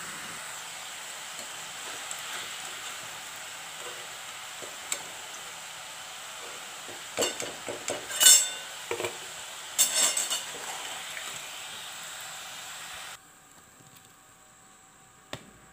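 Cauliflower kofta balls deep-frying in oil in a metal kadai, a steady sizzle. A steel slotted spoon and spatula clink and scrape against the pan several times between about seven and ten and a half seconds in. The sizzle cuts off suddenly about thirteen seconds in.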